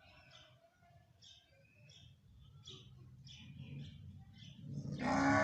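Parrot giving a series of short, high chirps, then a much louder, drawn-out call near the end.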